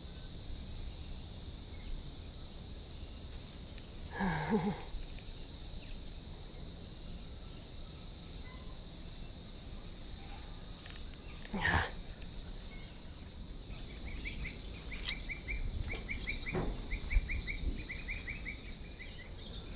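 Waterside ambience: a steady high-pitched chirring of insects with birds chirping, and a couple of brief knocks from the wooden footbridge overhead, about four and twelve seconds in.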